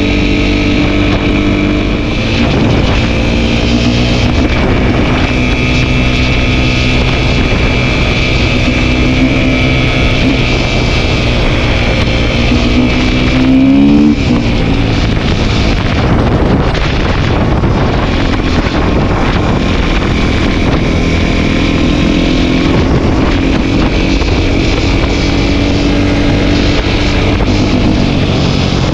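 Kick-start dirt bike engine running under way, with wind on the microphone. About fourteen seconds in, the revs climb sharply to the loudest point, then fall away as the throttle comes off.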